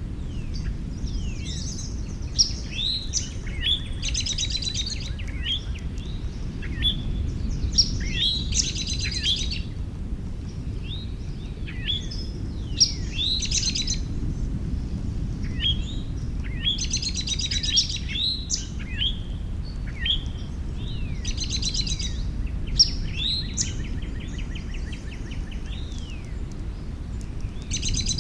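Several songbirds singing and chirping, with quick falling whistles. One bird repeats a buzzy song phrase every four to five seconds. A steady low rumble lies underneath.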